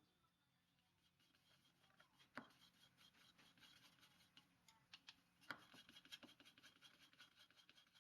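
Faint, rapid light clicking of a utensil against a bowl, as when beating eggs, with two sharper knocks at about two and a half and five and a half seconds in.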